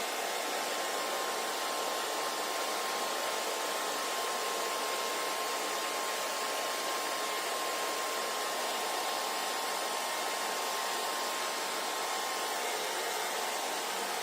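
Handheld hair dryer running steadily: an even rush of blown air over a faint motor hum, with no change in speed.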